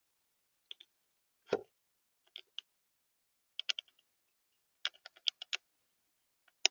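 Birds pecking and hopping on a bird feeder: irregular sharp taps and clicks, some in quick runs of three or four, with one heavier knock about a second and a half in.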